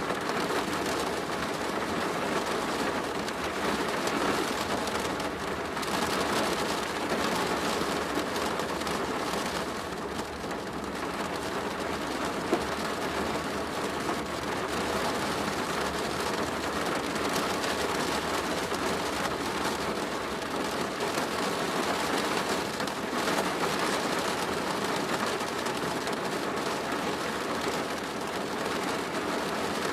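Steady rain drumming on a plastic roof, a dense, even patter of drops, with one brief sharper tick about twelve seconds in.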